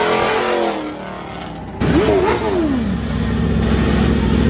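A vehicle engine revving. It drops in pitch in the first second, then about two seconds in it blips up and falls back, and from there it runs steadily.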